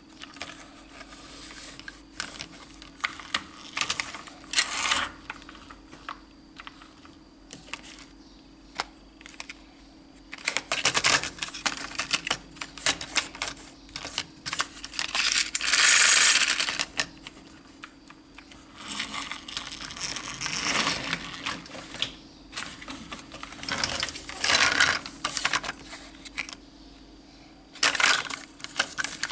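Plastic toy vehicles being handled: irregular clicks, clatter and scraping, with a few longer scraping stretches. A faint steady hum runs underneath.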